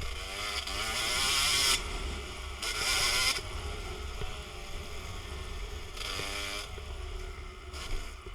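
Dirt bike engine revving up and down, loudest about one and three seconds in, with wind buffeting the microphone throughout.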